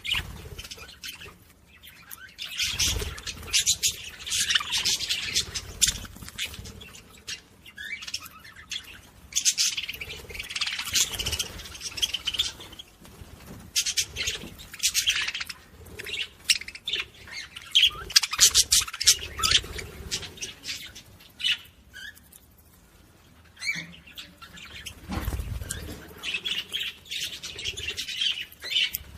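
Pet budgerigars chattering and squawking in rapid, busy bursts of a few seconds each, with short lulls between.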